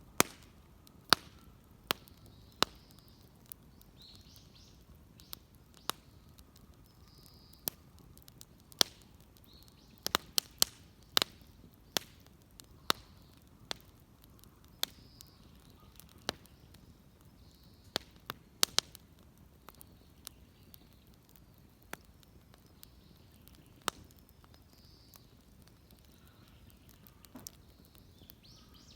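Wood fire crackling, with sharp pops and snaps coming irregularly, sometimes in quick clusters, over a low steady background.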